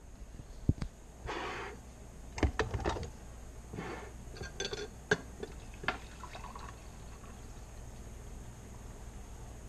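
Liquid pouring in two short spells, about a second in and again near four seconds, with scattered light clicks and knocks around them.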